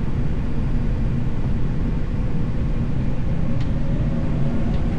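Airliner's jet engines at takeoff thrust with the rumble of the takeoff roll, heard inside the cockpit: a steady, deep rumble.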